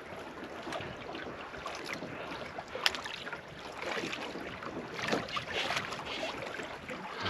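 Wind and water noise around a small anchored boat, with scattered light knocks and clicks and one sharper click about three seconds in.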